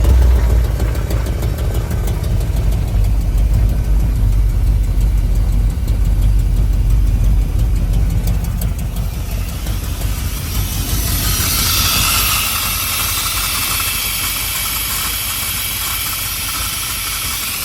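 Army truck's 454 big-block V8 running at idle with a steady low rumble. About ten seconds in, a loud hiss comes up over it and holds.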